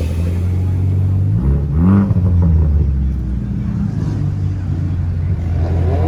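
Car engine idling steadily, revved once about a second and a half in, its pitch rising and falling back within about a second, then idling on.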